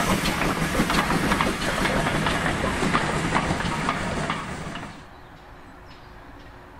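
A train of GWR passenger coaches rolling past close by, a steady rushing noise with wheels clicking and clattering over the rail joints. About five seconds in it cuts off abruptly to a quiet outdoor background.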